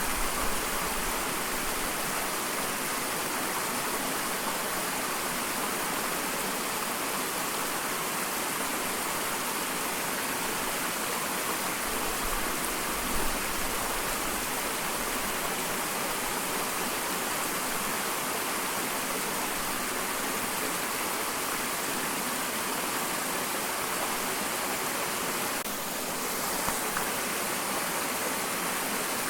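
Small waterfall rushing steadily: an even hiss of falling and splashing water.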